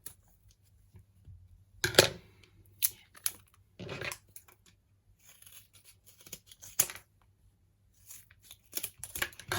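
Scissors cutting open a tofu pack's plastic packaging: a string of irregular sharp snips with short tearing and crinkling sounds, the loudest about two seconds in.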